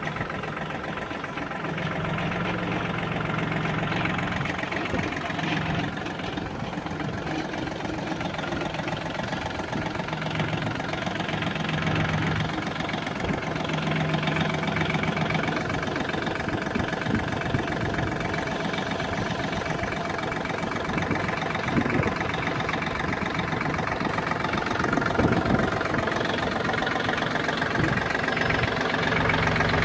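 Yanmar EF222 compact tractor's diesel engine running steadily at idle, with a knocking diesel clatter.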